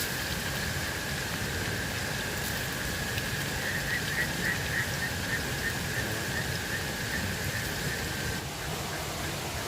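Steady hiss with a thin, high steady trill over it that cuts off about eight and a half seconds in. From about three and a half seconds, a run of short chirps, about three a second, rides on top and fades away.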